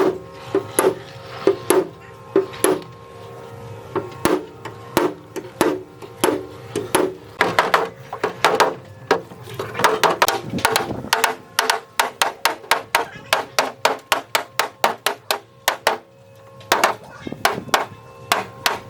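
Hammer blows in long runs, irregular at first, then a fast even run of about three to four a second through the middle, a brief pause, and more blows near the end.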